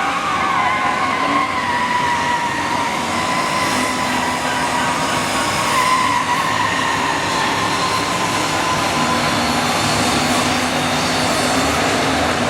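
Dozens of cars and trucks doing a simultaneous burnout: many engines held at high revs and spinning tyres squealing together in a loud, steady wall of noise, with a high squeal drifting slowly in pitch.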